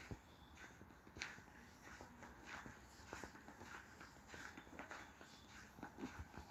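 Faint footsteps of a person walking at a steady pace, a run of soft short steps.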